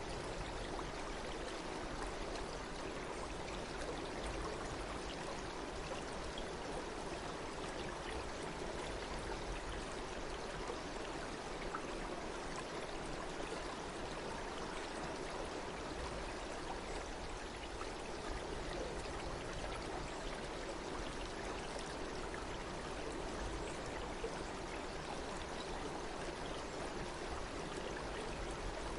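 Water flowing in a stream, a steady, even rushing and trickling with no change.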